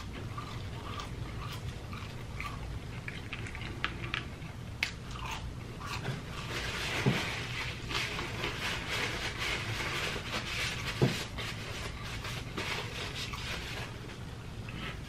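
Close-miked chewing of a mouthful of fried potato fries, with wet mouth noises and small clicks, busiest around the middle.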